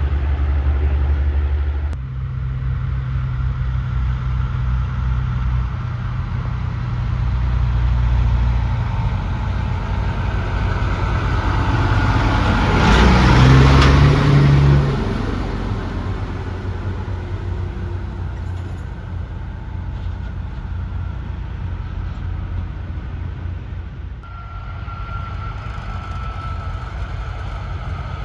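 Heavy trucks running on a road. One passes close by, a swelling rush of engine and tyre noise that is loudest about halfway through and then fades, over a steady low engine rumble.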